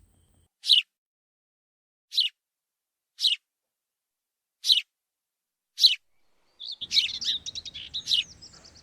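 Sparrow chirping: single short, high chirps about a second or so apart. About two-thirds of the way through, a busier run of quick chirps from birds begins over faint outdoor background noise.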